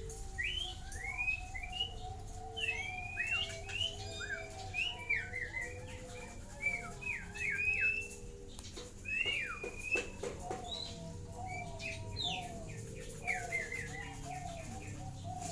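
A chorus of many birds: quick, sweeping chirps of small birds throughout, with lower, soft repeated calls beneath that fit the cooing of perkutut (zebra doves) kept in the farm's cages.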